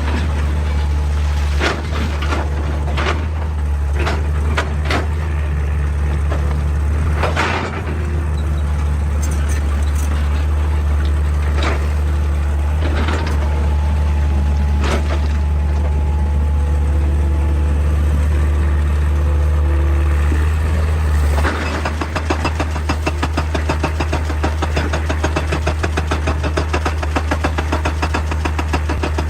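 Excavator diesel engine running under working load, with scattered sharp clanks and knocks of the machine against rock. About twenty seconds in, the engine note changes and a fast, even pulsing takes over.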